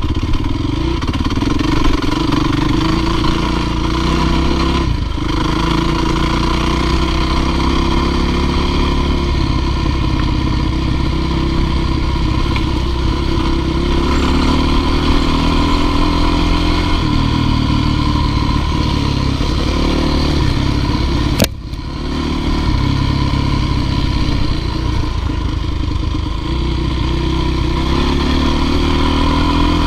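Dirt bike engine running and revving, its pitch rising and falling. There is one sharp knock about two-thirds of the way through.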